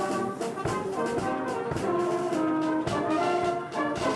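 Brass band playing, with sustained notes from several brass instruments such as trombones and trumpets.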